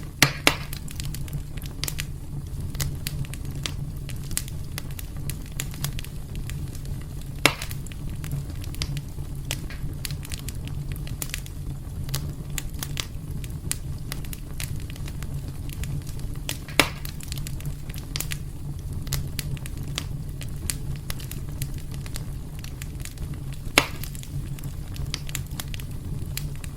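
Wood fire burning in a fireplace: a steady low rumble under constant small crackles, with a few sharper pops near the start and again about a third, two thirds and nine tenths of the way through.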